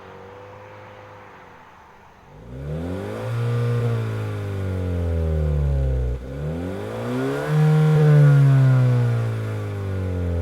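Honda Vezel hybrid's four-cylinder engine heard through an HKS Silent Hi-Power aftermarket muffler. It runs low and quiet at first, then is revved up twice, its pitch rising and falling, the second rev the louder one.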